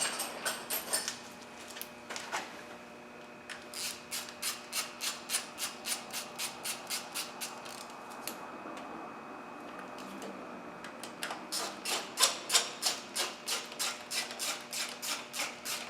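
Hand ratchet clicking in two long runs of strokes, about three clicks a second, with a pause in the middle: the bolt holding the fuel injector rail being tightened down.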